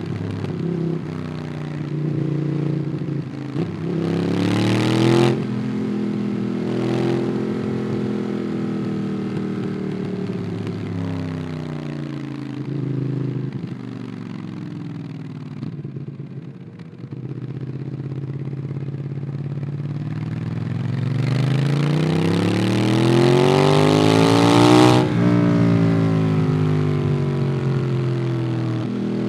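Ducati Monster 821's L-twin engine through a QD Twin Gunshot aftermarket exhaust, heard onboard while riding. It accelerates with rising pitch about four seconds in and shifts up, cruises, eases off the throttle around the middle, then pulls hard with a long rising rev before another upshift near the end.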